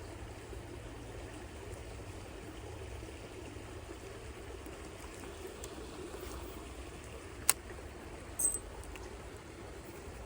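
Creek water running and trickling steadily. A sharp click about seven and a half seconds in, then a short high-pitched blip a second later.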